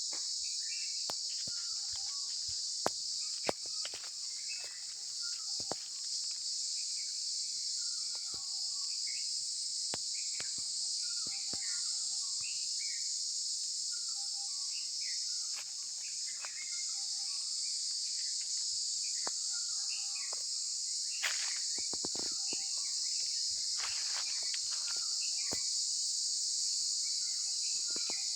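A steady, high-pitched drone from a chorus of forest insects runs throughout. Short, scattered bird call notes sound over it. There are occasional light clicks and a brief rustle a little over twenty seconds in.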